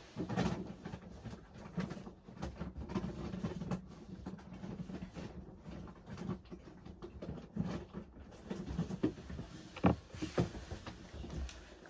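A cat's dinner being dished out: quick, irregular small clicks, taps and rustles, with one sharper tap about ten seconds in.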